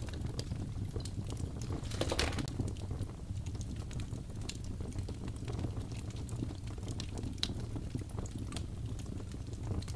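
Wood fire in a fireplace crackling, irregular sharp pops and snaps over a low steady rumble, with a louder cluster of crackles about two seconds in.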